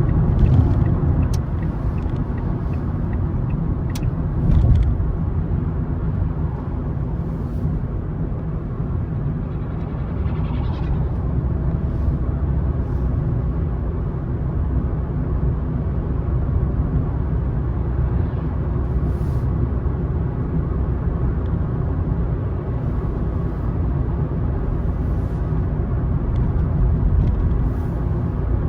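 Car on the move: steady low rumble of tyres on the road and the engine, with a brief swell about five seconds in.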